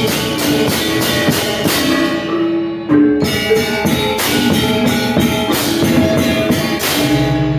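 Balinese gamelan gong ensemble playing: dense struck bronze metallophone tones with drum and cymbal strikes, a very short break about three seconds in, then a low gong-like tone that rings on near the end as the piece closes.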